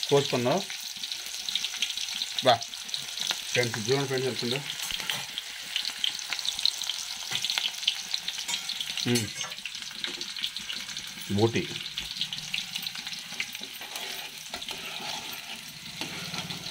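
Pieces of goat intestine (boti) frying in hot oil, with a steady sizzle and fine crackle as they are stirred.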